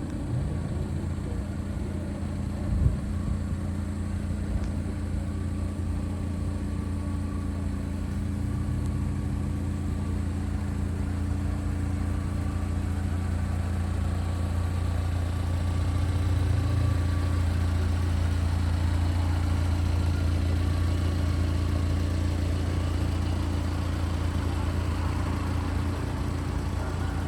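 A 1992 Subaru Sambar truck's small supercharged engine running steadily with a low, even hum. There is a single thump about three seconds in.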